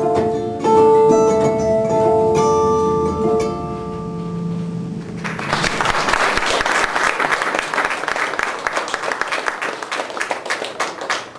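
An acoustic guitar plays the closing notes of a song. About five seconds in, an audience starts applauding.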